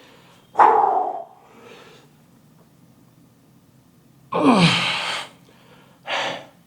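A man's forceful exhales and strained grunts while straining through a set of behind-the-neck presses. There is a sharp exhale about half a second in, a longer groaning exhale that falls in pitch around four and a half seconds in, and a shorter breath near the end.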